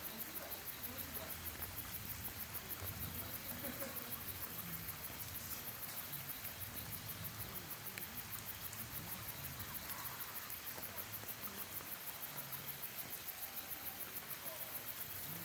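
An insect calling in a rapid, even rhythm of high-pitched pulses, with a faint low rustle of forest ambience beneath.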